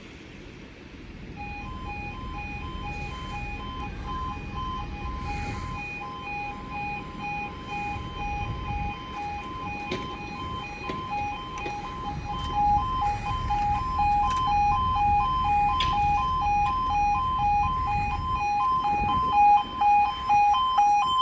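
Railway level crossing warning alarm sounding: two tones alternating in quick succession, the UK yodel-type alarm. It starts about a second and a half in and grows louder toward the end, over a low rumbling background.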